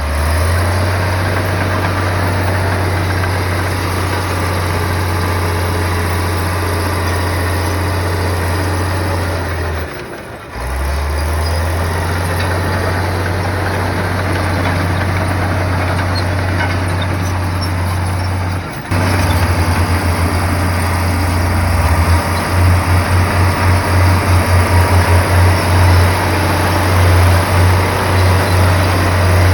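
Komatsu bulldozer's diesel engine running with a steady low drone. It drops out briefly about ten seconds in; from about twenty-two seconds the drone pulses rapidly for several seconds.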